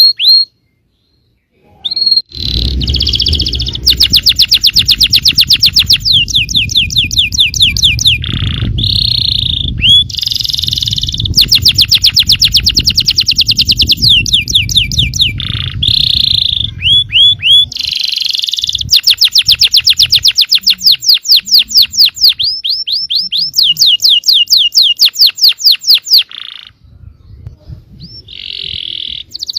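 Yellow domestic canary singing a long, loud song of fast trills and rolls, its notes repeated many times a second in phrases with short breaks between them.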